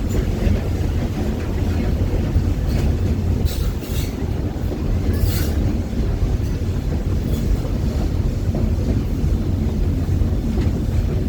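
Walt Disney World Railroad steam train rolling along the track, heard from aboard: a steady low rumble, with a few brief faint high squeaks from the wheels a few seconds in.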